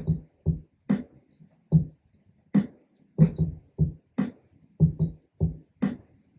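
A sampled live drum kit programmed in Logic Pro X plays a steady beat: paired low kick hits, snare hits that reach across the whole range, and light hi-hat ticks between them. The kick has overdrive on it and its high end EQ'd out.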